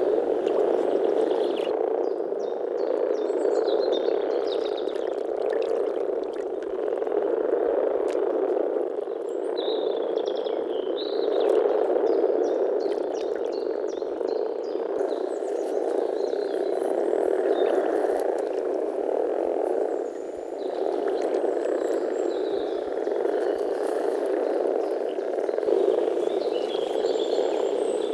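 A chorus of common frogs (Rana temporaria), many calling at once in a dense, continuous low mass that swells and eases. Faint short bird chirps sound above it.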